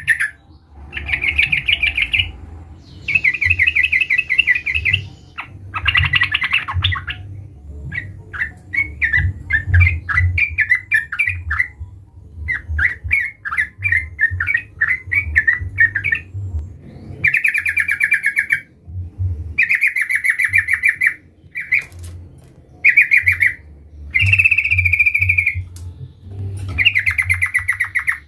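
Sooty-headed bulbul (trucukan) singing in a run of short, rapid, bubbling phrases, each about a second or two long, with brief pauses between them.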